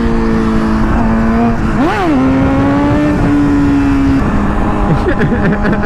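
Motorcycle engine running at a steady pitch while riding, with a quick throttle blip, up and back down, about two seconds in, and a slight drop in revs a little after four seconds. A rushing wind noise runs underneath.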